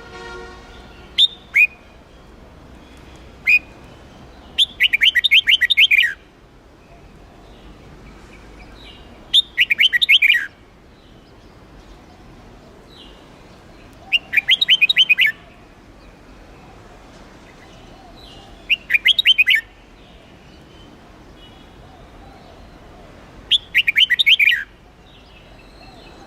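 Red-whiskered bulbul singing in short, loud bursts of rapid chattering notes, five bursts about every four to five seconds, with a few single short calls in the first few seconds.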